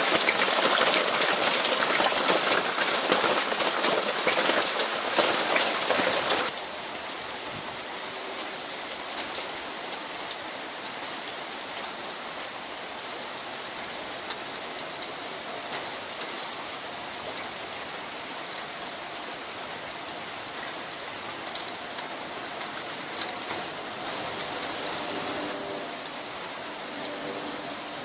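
Steady rain falling, with individual drops ticking on surfaces. It is loud for the first six seconds or so, then abruptly drops to a softer, even patter.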